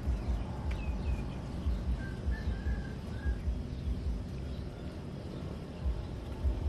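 A few faint, short bird chirps over a low, uneven rumble.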